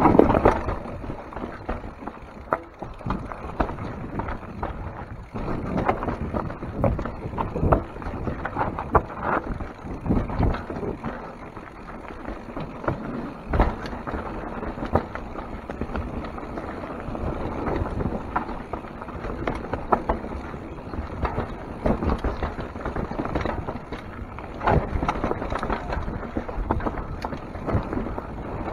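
Mountain bike descending a rough, rocky trail: tyres rumbling over dirt and rock, with frequent irregular knocks and rattles from the bike as it is jolted.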